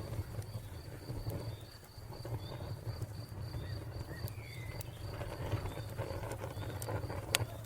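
Wood fire crackling with a low rumble and scattered sharp pops, one loud crack near the end. A cricket chirps in a steady pulsing rhythm throughout, and a bird gives short repeated chirps.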